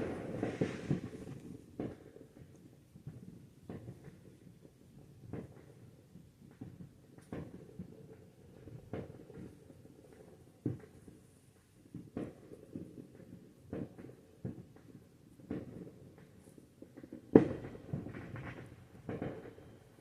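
Fireworks going off outside: single sharp bangs and pops every second or two over a low rumble, with the loudest bang about seventeen seconds in.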